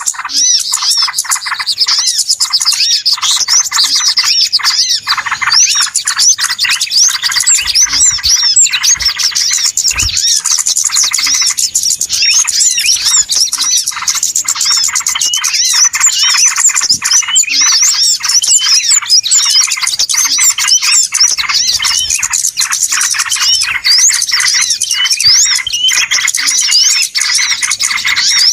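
Many small birds chirping and chattering over one another in a dense, unbroken chorus of quick, high chirps and trills: a bird-lure (pikat) recording of noisy small birds, used to draw small wild birds in.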